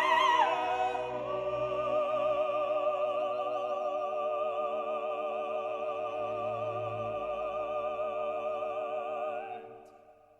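Operatic singing with orchestral accompaniment: the singer holds one long note with wide vibrato, then the music fades out near the end.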